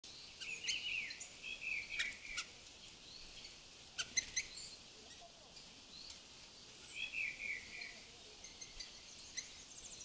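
Birds calling outdoors, with sharp chirps and call notes and a couple of short, falling warbled phrases, over a steady high hiss.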